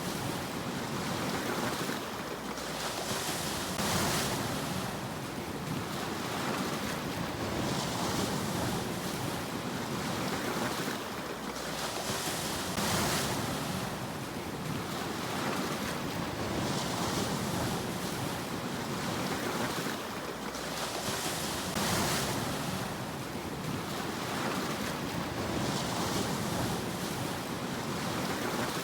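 Sea waves washing in and receding, each swell rising and falling about every four to five seconds.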